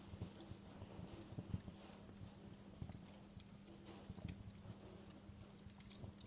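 Wood fire crackling in a fireplace: irregular pops and snaps over a faint steady low hum.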